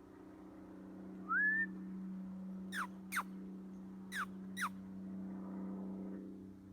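A person whistling to an owl: one short rising whistle, then four short falling whistled notes in two pairs, over a steady low hum.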